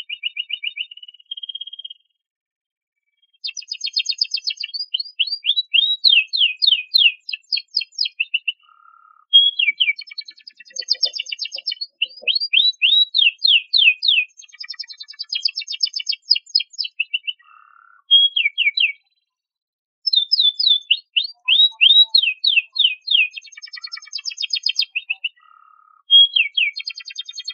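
Domestic canary singing: phrases of fast repeated downward-sweeping notes and rattling trills, with brief pauses between phrases.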